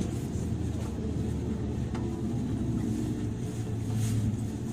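Steady low rumble and hum inside a JR 103-series electric train's motor car, heard from within the carriage.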